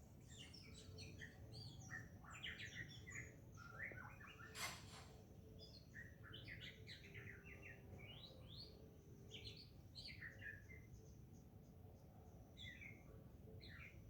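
Wild birds chirping faintly, quick high twittering notes in several bouts with short pauses between. A sharp click about four and a half seconds in is the loudest sound.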